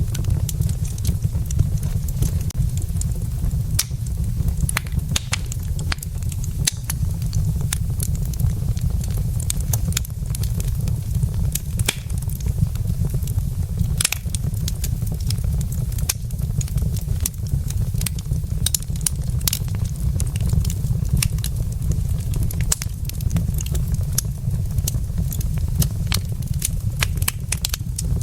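Wood fire in a fireplace crackling, with frequent irregular sharp pops and snaps from the burning logs over a steady low rumble.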